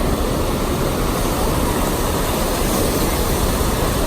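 Loud, steady rushing noise, heaviest and most buffeting in the low end, with no distinct events.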